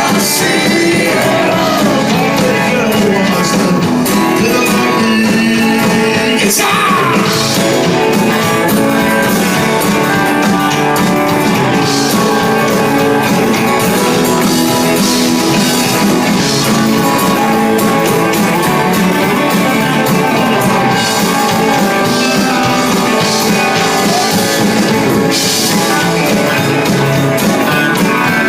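A live band playing a country-rock song, with singing over guitar.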